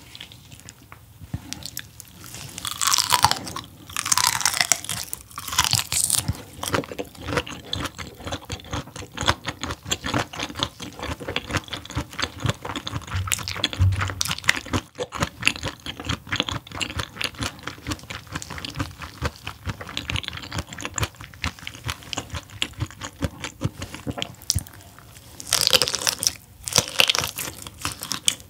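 Close-miked chewing of raw fish sashimi, a dense run of small wet mouth clicks. There are louder bursts about three to six seconds in and again near the end.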